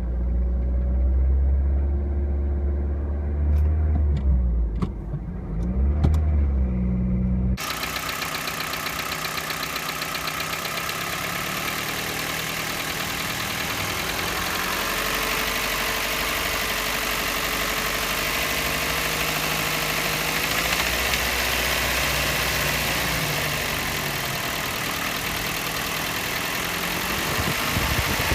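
Toyota Yaris 1NZ-FE four-cylinder engine running. First comes a heavy low rumble. After a sudden change about seven seconds in, the engine is heard more directly, its speed slowly rising and falling, with a high-pitched metallic rattle from inside the engine that points to a fault in the rebuild.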